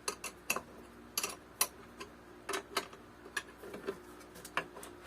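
A nut being tightened with a wrench on the wooden balance bike's hardware: a string of sharp, irregular clicks, about two to three a second.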